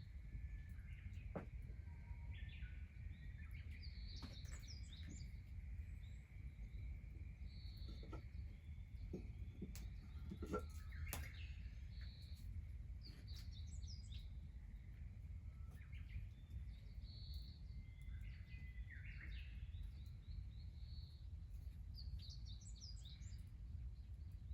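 Small birds chirping in short repeated calls over a quiet, steady low rumble, with a few scattered sharp clicks.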